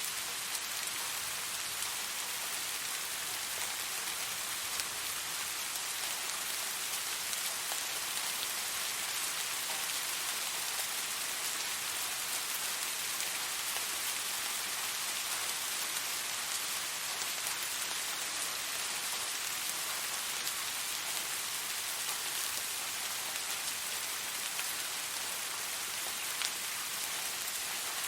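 Steady rain falling and pattering on a surface, an even hiss with scattered small drop taps.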